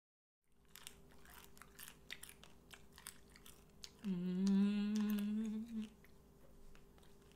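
A woman chewing crunchy fried chicken feet with many sharp crunches and clicks of the mouth. About four seconds in she hums a steady, slightly rising "mm" of enjoyment for about two seconds, then goes back to crunchy chewing.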